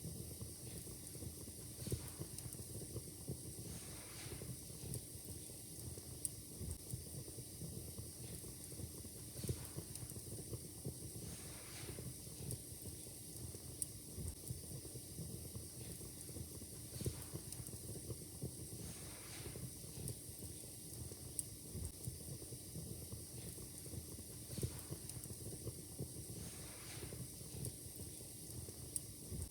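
Wood fire crackling in a fireplace: a low steady hiss with irregular sharp pops and snaps and occasional soft swells of hiss.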